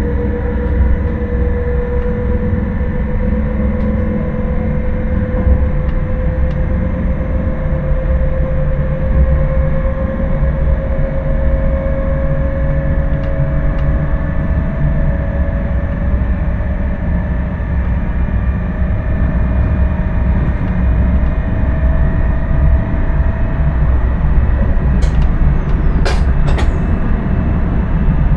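Intercity train running, heard from the driver's cab: a steady low rumble with a whine slowly rising in pitch, and a few sharp clicks near the end.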